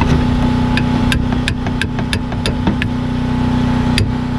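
Hammer striking a pickle fork driven between the outer tie rod end and the steering knuckle, metal on metal, trying to pop the tie rod end's tapered stud loose. A quick run of seven blows about three a second, a pause, then one more near the end, over a steady low hum.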